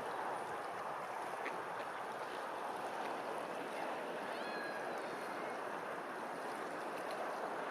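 Steady rushing of flowing water, with a short bird call about halfway through.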